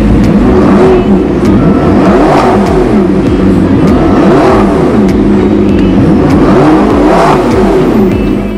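McLaren 650S twin-turbo V8 revved repeatedly while standing in neutral, engine pitch climbing and falling several times in a row.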